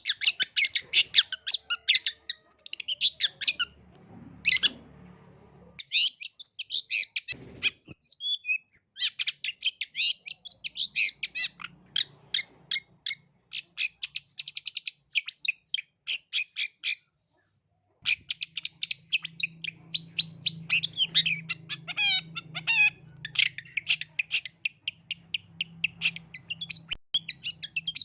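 Long-tailed shrike (cendet) singing a fast, unbroken run of short, high chattering and chipping notes, stopping dead for about a second around two-thirds of the way through before resuming.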